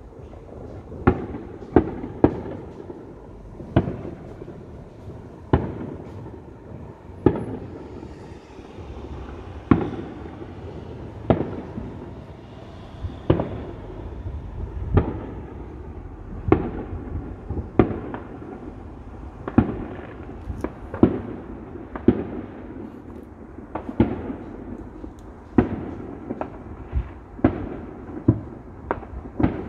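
Fireworks going off: a string of sharp bangs at irregular intervals, about one every second or two, over a steady low rumble of further bursts.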